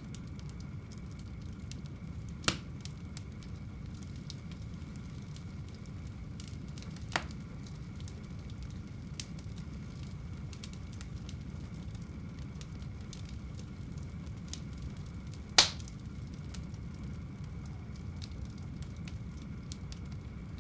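Wood fire burning in a home fireplace: a steady low rumble of flames with light crackling, and three sharper pops from the burning wood, the loudest about two-thirds of the way in.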